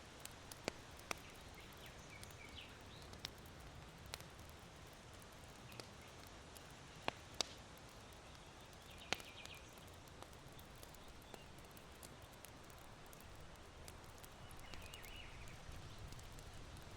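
Charcoal in an irori hearth crackling, with sharp pops scattered every second or two, over a low steady rush of wind in bamboo. Small birds chirp faintly three times.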